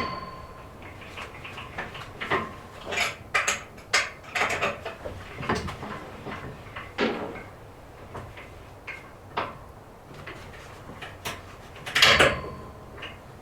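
Irregular knocks and clatter of freshly sawn wooden planks being handled and set down, with two louder bangs, at the start and near the end, that ring briefly.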